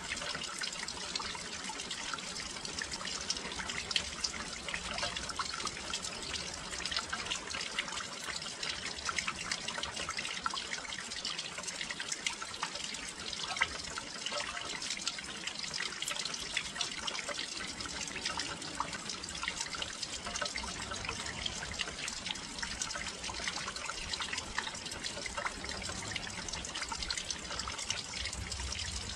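Steady rain falling, with dense fine drops pattering and dripping close by, on and around a windowsill.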